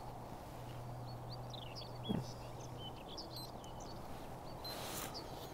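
A small songbird twittering, a run of quick high chirps in the middle, over a steady low hum, with a single soft knock about two seconds in.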